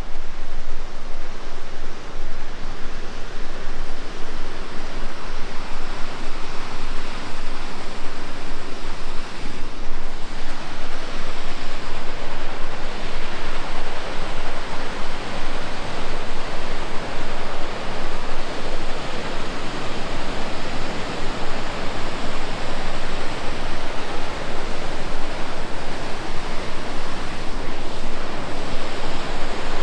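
Loud, steady rush of whitewater from a river and falls in a gorge.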